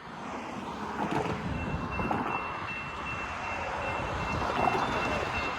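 Approaching freight train, a rumble growing louder, with a railroad crossing's electronic warning bell starting about a second and a half in and ringing as a steady high tone.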